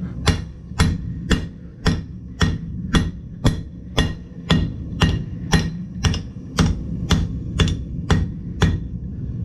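Blacksmith's hammer striking hot metal on an anvil in a steady rhythm, about two blows a second, each a sharp ringing strike over a steady low hum.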